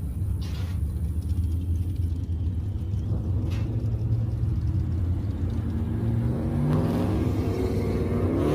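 A car engine rumbling steadily at low speed, then revving up with a rising pitch from about six and a half seconds in as a car pulls away.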